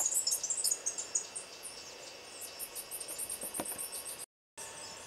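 Insects making a high-pitched, rapid pulsing chirp in two bouts, the second starting about halfway through. The sound cuts out completely for a moment near the end.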